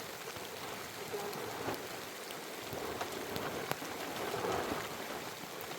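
Steady rain falling, with single drops ticking sharply through the even hiss.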